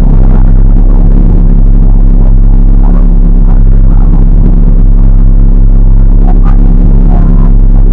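Rally car's engine idling steadily, heard loud and close from inside the cabin.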